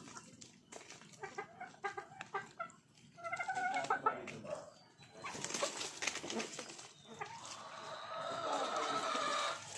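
Domestic chickens clucking and calling in short bursts, with a longer drawn-out call held for a couple of seconds near the end.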